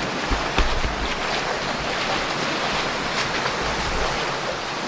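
Flowing water running steadily, with wind buffeting the microphone in low rumbles now and then.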